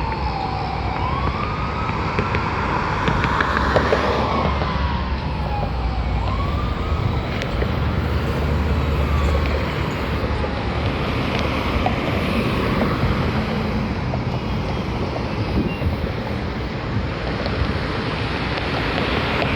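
Fire department emergency vehicle siren wailing, its pitch sweeping slowly down and up, fading after about seven seconds, over steady traffic rumble and road noise.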